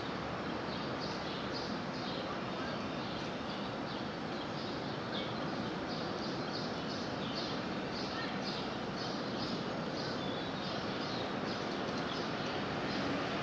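Small backyard birds chirping over and over, short high notes coming every half second or so, over a steady background rush.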